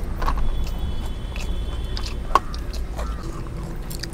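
People eating chicken biryani: chewing and biting, with scattered small clicks and scrapes over a steady low hum.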